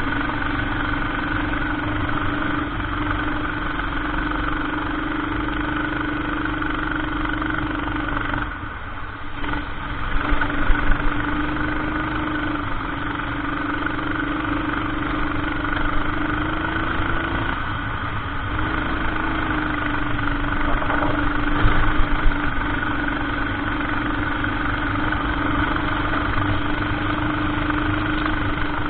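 Racing kart engine heard onboard during a lap, holding a fairly steady pitch that drops away twice as the throttle is lifted for corners and then climbs again. A few sharp knocks about ten seconds in and again about twenty-two seconds in.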